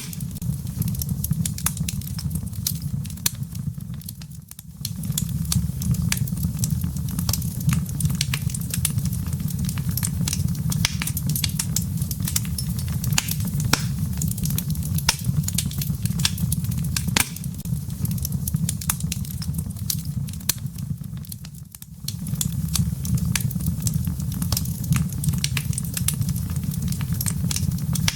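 Wood fire burning in a fireplace: a steady low rumble of flames with frequent sharp crackles and pops from the burning logs. The sound dips briefly twice.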